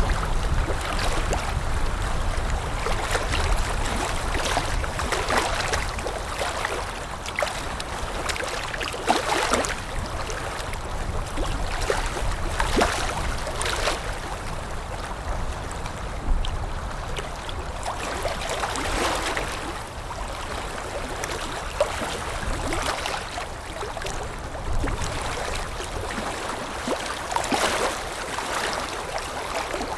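Water lapping in small irregular washes, with wind rumbling low underneath.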